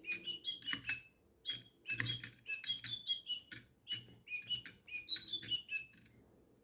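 DigiBirds toy lovebird playing electronic birdsong: a quick string of short chirps at shifting pitches, each with a click, stopping about six seconds in.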